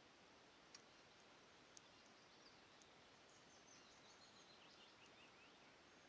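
Near silence: faint outdoor hiss with distant songbirds twittering faintly in the middle, and two soft clicks in the first two seconds.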